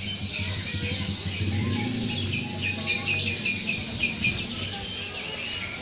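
Many birds chirping and calling together, with a quick run of repeated chirps in the middle, over a low background rumble.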